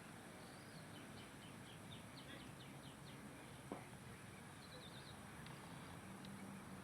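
Faint bird calls: a run of short, high chirps at about four a second, then a quick trill a little past the middle, over a steady background hiss. A single soft knock comes about halfway through.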